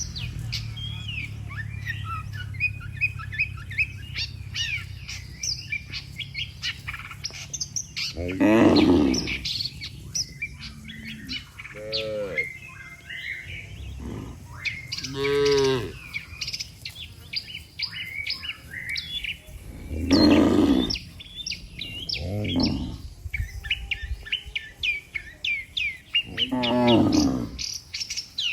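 Cattle mooing: about six long calls spaced a few seconds apart, the loudest ones near a third of the way in, around the middle and near the end. Birds chirp steadily underneath throughout.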